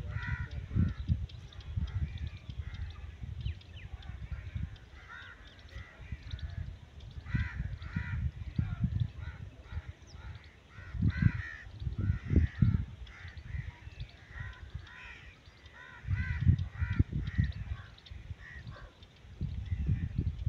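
Birds calling again and again in short runs of several notes, with a low rumble that comes and goes in gusts every few seconds.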